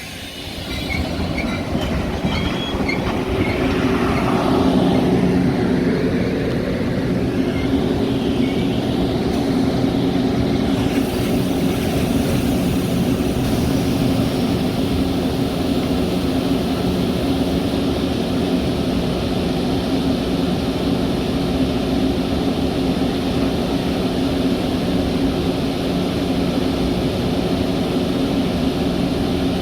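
Metra commuter train running on the rails: a steady rumble with a few held low hum tones, building over the first few seconds and then holding even.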